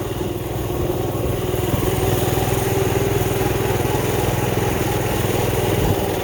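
Small motorcycle engine running steadily at a constant speed, with a brief dip near the end.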